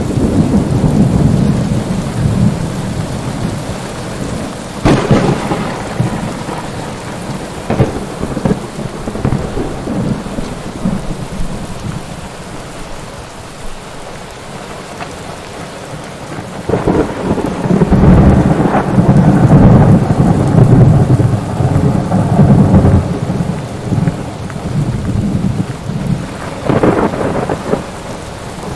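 Thunderstorm: steady rain with thunder rolling throughout. There is a sharp crack about five seconds in, a long, loud low rumble in the middle, and another crack near the end.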